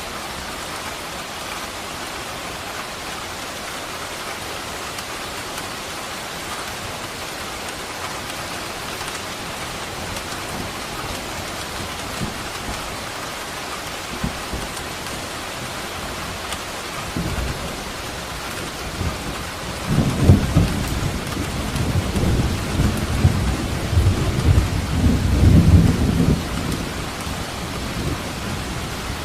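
Steady rain falling, with a roll of thunder building about two-thirds of the way in and rumbling loudly for several seconds before fading.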